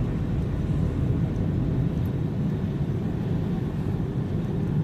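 Steady low rumble of car road noise heard from inside the cabin, tyres and engine at highway speed of about 47 mph on a snow-covered road.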